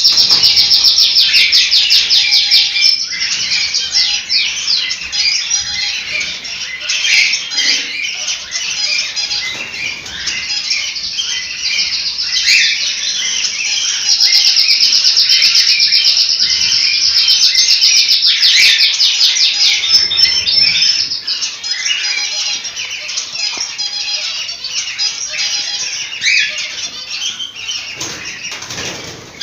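A group of cockatiels chirping and chattering continuously. Fast, high trills come near the start and again about halfway through.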